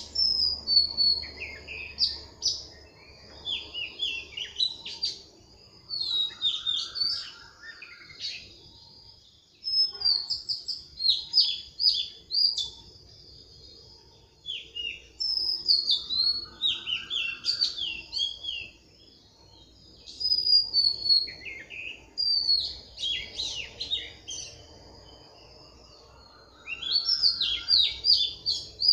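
Birdsong: phrases of quick high chirps a few seconds long, separated by short pauses, with a lower rising trill between some of them.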